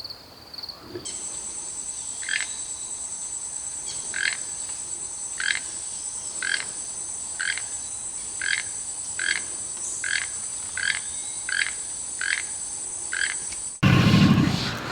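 A wild animal gives a short call about once a second, over a steady high-pitched drone. Near the end this cuts suddenly to a louder, different sound.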